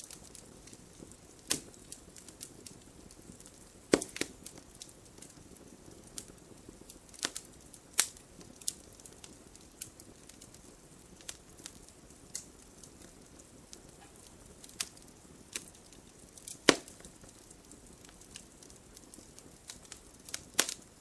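Wood campfire crackling: irregular sharp pops and snaps over a faint steady hiss, with a few louder pops, the loudest about seventeen seconds in.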